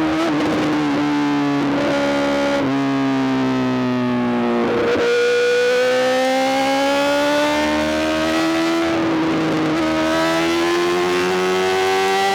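Honda CBR1000RR-R SP's inline-four engine through a full Arrow GP exhaust, running under way. Its pitch eases down over the first few seconds and then climbs slowly as the bike pulls, with several brief breaks in the note at gear changes.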